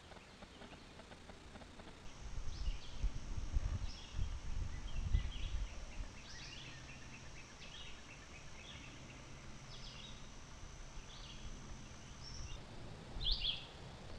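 Birds chirping in short calls, roughly one every second, over a steady high whine, with a low rumble in the first few seconds and a louder burst of chirps near the end.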